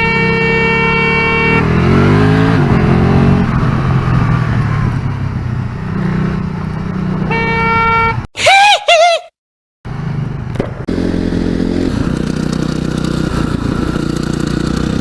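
A vehicle horn blares steadily over engine noise for about a second and a half, then a motorcycle engine revs up. The horn sounds again for about a second around the middle, followed by a few quick rising-and-falling tonal chirps and a moment of silence before the engine is heard running again.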